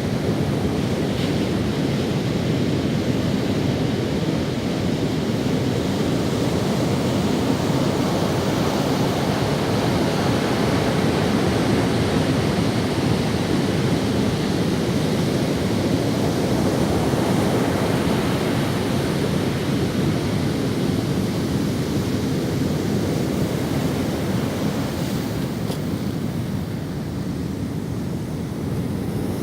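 Ocean waves breaking and washing up on a sandy beach, a continuous surf rush that swells and eases slowly, with some wind on the microphone.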